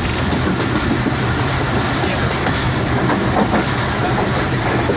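Moving passenger train heard from on board: a steady running noise of the wheels on the track, with a constant low rumble.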